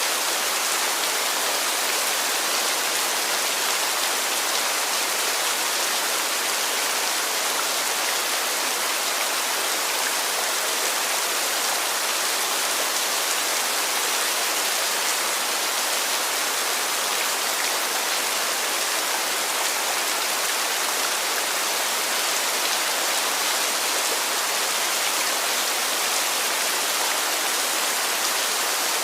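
Heavy rain falling steadily, a dense unbroken hiss with no single drops standing out.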